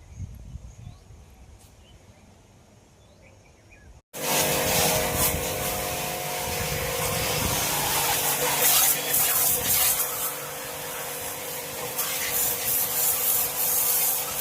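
Water jet hissing steadily over parts of a washing machine being cleaned during a service, with a steady machine hum under it. It starts abruptly about four seconds in, after a faint outdoor background.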